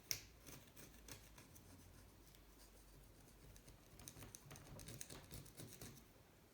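Faint scratching and light clicking of a hand tool working on the engine's crankshaft and ball bearing, with a sharp click at the start and a busier run of small scrapes about four to five seconds in.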